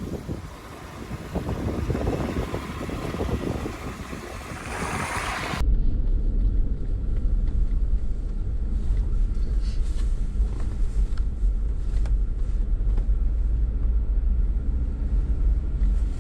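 Jeep driving on a snowy road. First a broad rush of wind and road noise, which cuts off abruptly about five and a half seconds in to a steady low rumble of the engine and tyres.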